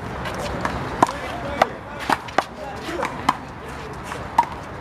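Big blue handball rally: the rubber ball smacked by open hands and off the wall, about seven sharp smacks at uneven intervals of roughly half a second to a second.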